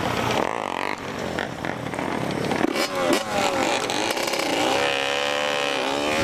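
Dirt bike engines revving, the pitch climbing and falling several times, with the revving getting stronger in the second half.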